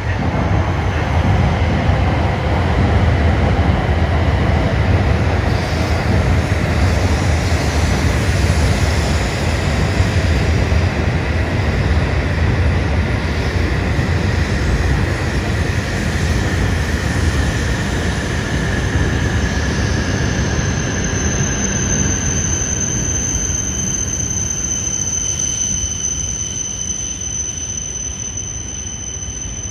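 Shinkansen trains running on the elevated tracks close by: a heavy, steady rumble that slowly fades over the second half, with a high, steady squeal joining about two-thirds of the way in.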